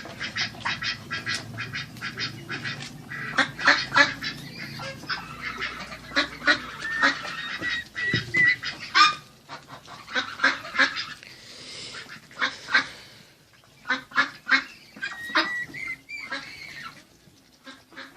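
A flock of domestic waterfowl calling: many short calls repeated rapidly and overlapping one another throughout.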